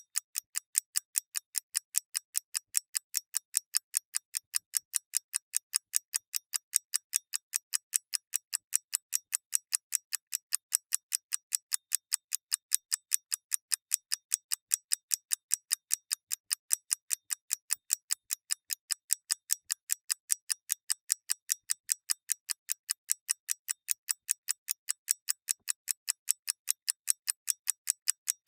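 Mechanical clockwork ticking steadily with light, sharp, high-pitched ticks, about four a second.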